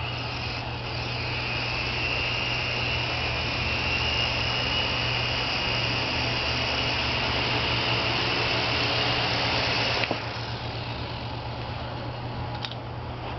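Syma S107 mini helicopter's small electric motors and coaxial rotors spinning up with a high whine, running steadily, then throttled back sharply about ten seconds in.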